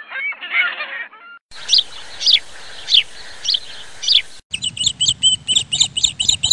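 Bird calls from several spliced recordings. A few pitched calls come first, then five chirps sliding downward about half a second apart, then a fast run of high chirps over a low rumble.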